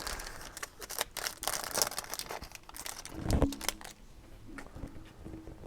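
Plastic trading-card pack wrapper crinkling and cards being handled, in many short scratchy rustles, with a louder dull knock about three seconds in.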